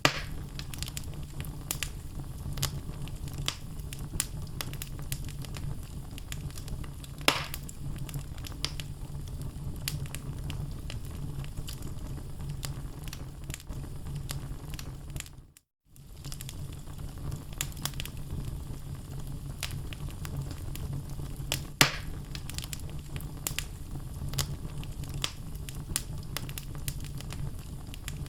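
Wood fire burning in a fireplace: logs crackling with many small snaps over a steady low rumble of flame, and two louder pops, one about a quarter of the way in and one about three quarters in. Just past halfway the sound cuts out briefly.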